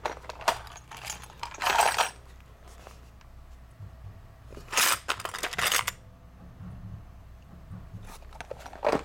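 Small metal sewing-machine bits and spare needles clinking and rattling as a storage compartment is handled, in a few short clattering bursts: about half a second in, near two seconds, a longer one around five seconds, and one at the end.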